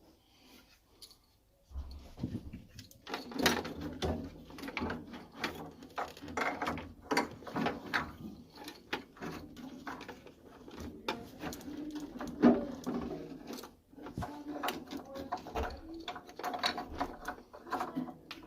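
Irregular clicks, knocks and rattles of hands and tools working on a combi boiler's internals, over a low steady hum. It starts about two seconds in.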